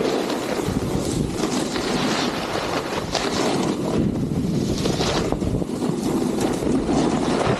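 Snowboard carving on snow with heavy wind rumble on the microphone; the board's edge scrapes across the snow in hissing surges, one with each turn, every second or two.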